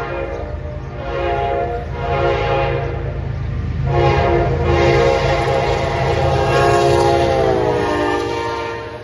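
Diesel locomotive's multi-tone horn: three short blasts, then one long blast whose pitch drops near the end, over the low, steady rumble of the train.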